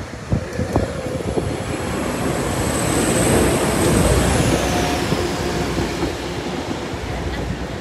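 A train passing over the level crossing, its wheels clicking over the rails and swelling to a peak about three to four seconds in before easing off. A thin high wheel squeal drops a little in pitch as the train goes by.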